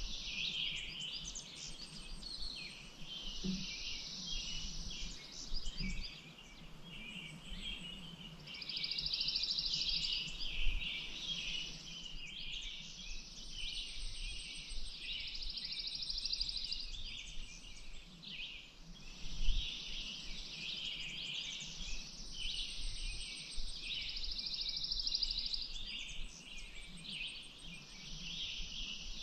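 Several songbirds singing and chirping at once. A rapid, buzzy trill lasting a couple of seconds comes back every few seconds. There are a couple of faint low bumps.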